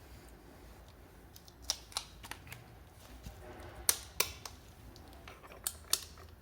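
Scattered sharp clicks and light metallic knocks, about eight at irregular intervals: tools and parts being handled during work on a scooter.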